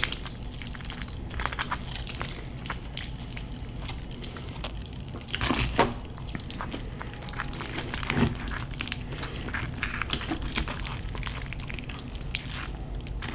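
Close-miked chewing of crispy pata, deep-fried pork: wet mouth sounds and many small clicks, with a few louder knocks around the middle.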